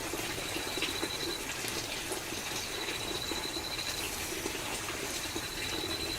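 Steady rushing noise like running water, with a thin high trill that comes and goes in stretches of about a second.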